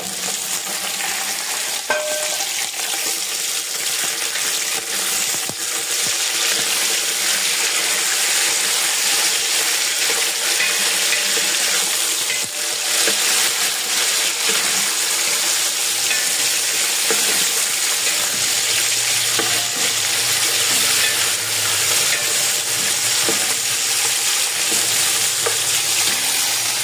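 Raw chicken pieces sizzling steadily in hot oil in a large metal pot (degchi), being stirred with a wooden spoon that knocks against the pot now and then. The chicken has just gone in on top of the browned onions and is beginning to sear.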